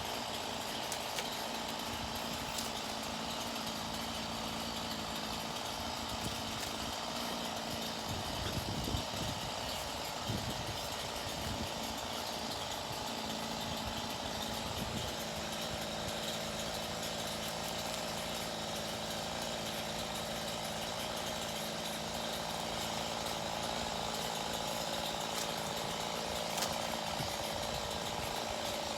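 Chainsaw running steadily through a cut, its engine note holding level.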